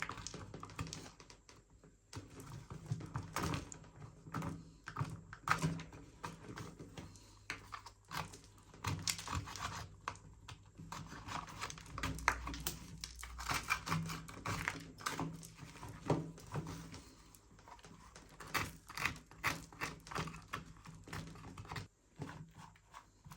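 Irregular plastic clicks, taps and rubbing from a toy car remote control being handled and cleaned.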